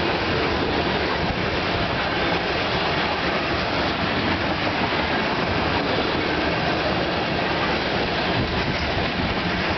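Loaded ethanol tank cars of a CP freight train rolling past at close range: a steady noise of steel wheels running on the rails.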